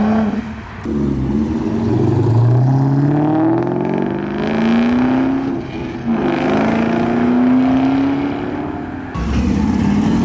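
A car engine accelerating hard, its pitch climbing and dropping back several times as it shifts up through the gears.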